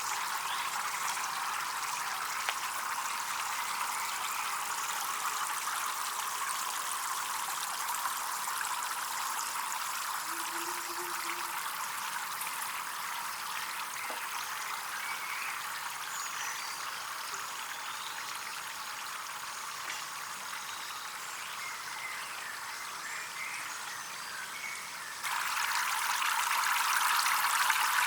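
Water running and trickling steadily, as from a small flowing pond or stream; it gets abruptly louder near the end.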